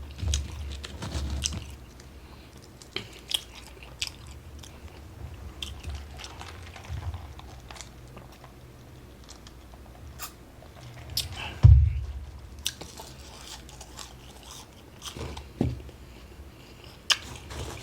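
Close-up chewing and biting of a burger and fries, with wet mouth clicks and smacks over a low steady hum. A loud low thump about twelve seconds in and a smaller one a few seconds later.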